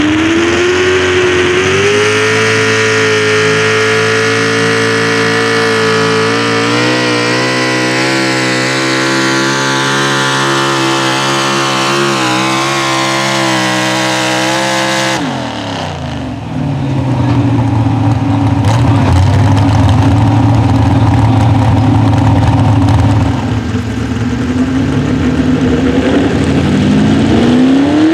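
Pro stock four-wheel-drive pulling truck engine at full throttle down the track, its pitch climbing at first and then holding high under load. About halfway through it drops away abruptly, a lower engine sound runs for several seconds, and near the end another engine revs up with a steep rise in pitch as the next pull starts.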